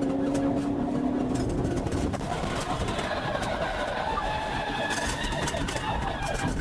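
Vehicle engine and road noise at speed, continuous and fairly loud, with the engine's pitch climbing slowly through the second half.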